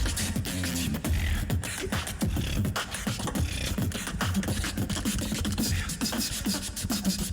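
Live beatboxing from a battle performance: rapid kick, snare and click sounds over a held vocal bass line, with sung tones woven in.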